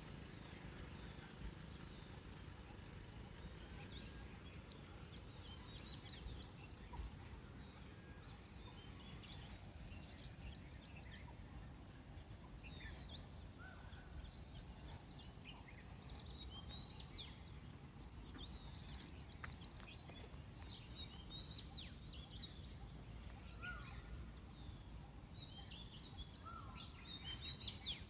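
Several birds chirping and singing faintly, in many short quick notes scattered throughout, over a faint low outdoor rumble.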